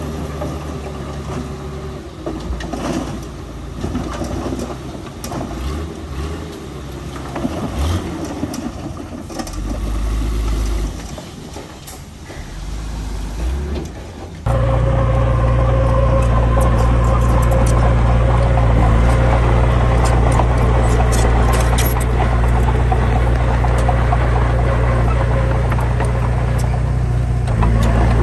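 Heavy diesel machinery engines running. For the first half the engine note rises and falls unevenly. About halfway through it cuts abruptly to a louder, steady engine drone with a held whine.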